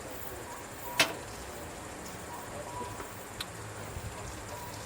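A sharp click about a second in, and a fainter one a couple of seconds later, over a steady background hiss.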